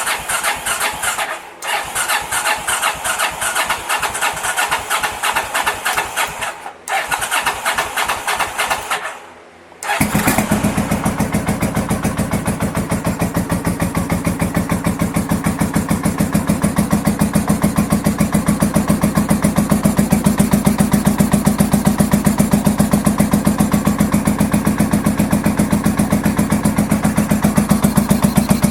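1983 Honda VT750 Shadow's V-twin engine being cranked on the electric starter in three short runs, then catching about ten seconds in. It runs steadily on choke for the rest, its first start after a top-end rebuild.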